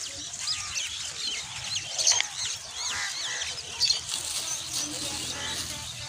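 A flock of birds chirping, many short rising-and-falling chirps overlapping, with a couple of louder calls about two and four seconds in.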